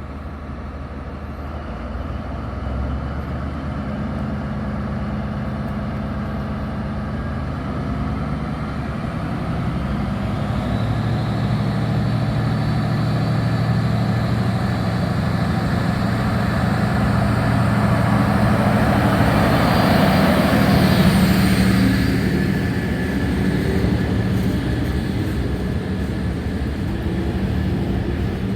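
Diesel locomotive hauling a work train pulling away under power, its engine sound building as it draws near and passing loudest about twenty seconds in. A whine rises in pitch about ten seconds in and then holds.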